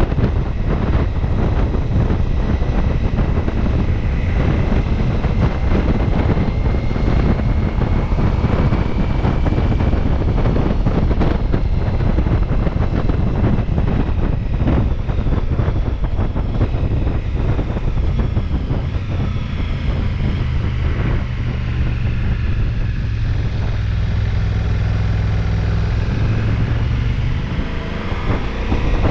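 Ducati Multistrada V4S's V4 engine running under way, with heavy wind rushing over the microphone. The engine note slowly rises and falls, then holds a steady low pitch for several seconds near the end.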